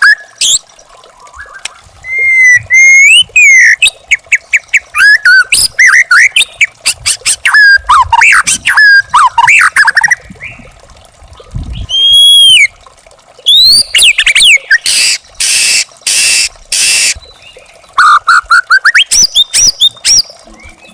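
White-rumped shama singing: a long, varied song of whistled glides, fast clicking trills and harsh buzzy notes, with short pauses between phrases.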